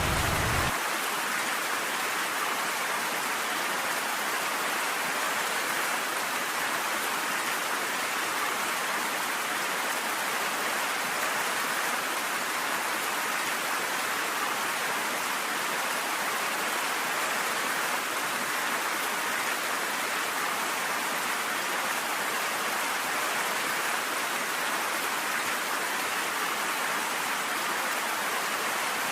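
Steady rain, an even hiss of falling drops with no let-up. A low rumble underneath stops abruptly just under a second in.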